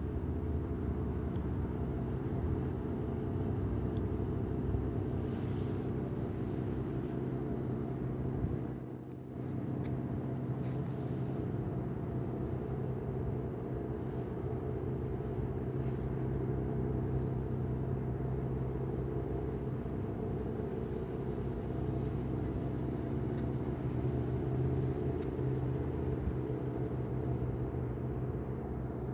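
Cadillac Allante's 4.5-litre V8 idling steadily.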